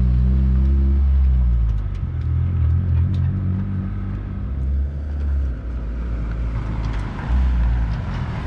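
Honda K24-engined Civic EG race car being driven slowly, its engine giving a low rumble that swells and dips as the throttle changes, with a dip about five and a half seconds in and a swell about a second and a half later.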